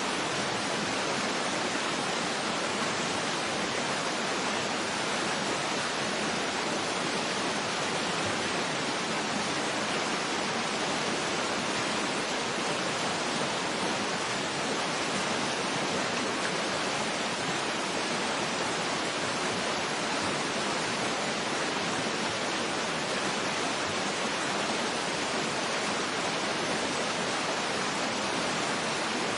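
Waterfall: a steady, unbroken rush of falling water, an even hiss with no changes.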